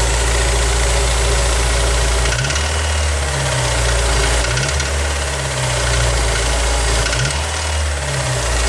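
Honda S2000 four-cylinder engine running with a rattle, idling and then revved briefly three times before dropping back to idle. The owner suspects engine damage, raising the timing chain or a connecting rod as possible causes.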